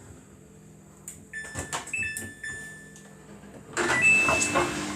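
Samsung washing machine's control panel: a string of button clicks with short electronic beeps as the final spin is set up, followed near the end by a louder burst of machine noise with another beep.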